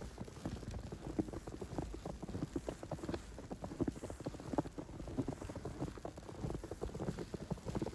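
Footsteps crunching through snow: a steady run of short crunches.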